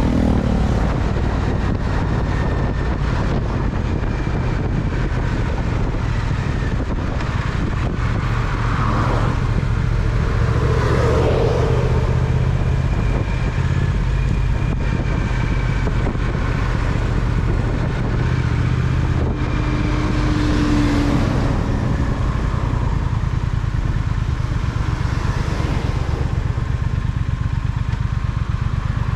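Triumph Speed Twin's parallel-twin engine running steadily while riding, with traffic around it.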